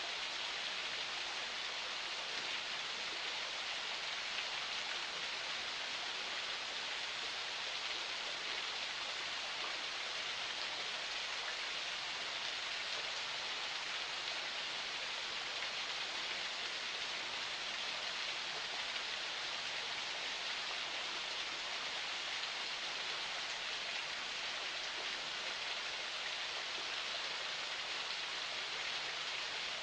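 Forest spring water flowing, a steady even rush of splashing water.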